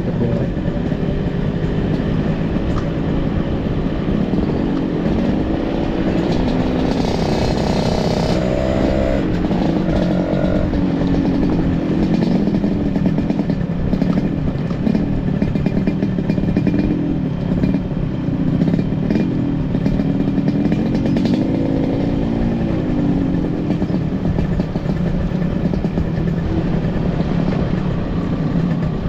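Motorcycle engine running under way, its pitch rising and falling again and again as it revs up and down, over a steady rushing noise.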